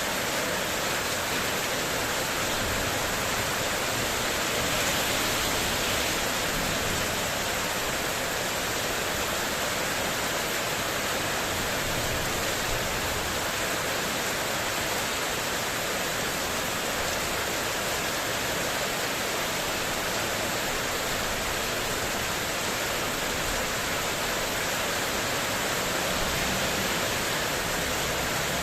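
Heavy rain pouring steadily onto a corrugated metal (spandek) terrace roof as a constant, even downpour.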